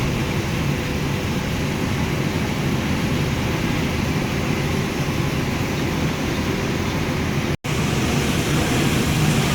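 Steady running noise of an intercity bus at highway speed: a low engine drone and road noise, with no change in pace. The sound cuts out completely for an instant about three-quarters of the way through.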